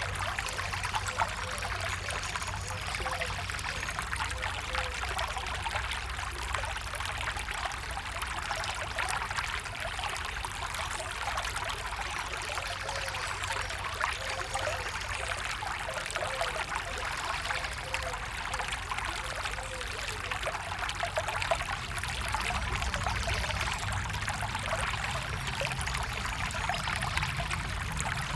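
A stream flowing, the water running steadily.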